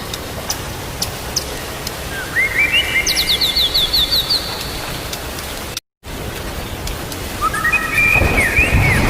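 Songbird calls over a steady hiss of rain: a quick run of repeated short chirps about two seconds in, and another near the end. The sound cuts out completely for a moment in the middle.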